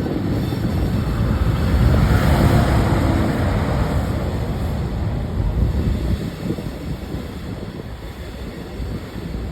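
Train rolling past with a low, even rumble that swells about two seconds in and then slowly fades.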